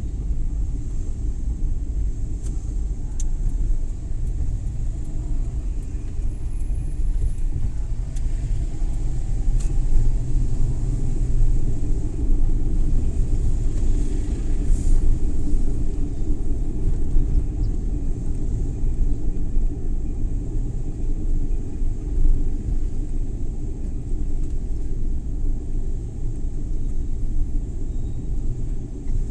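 Suzuki Every Wagon (DA64W) kei van on the move: a steady low rumble of engine and road noise, with a few faint clicks.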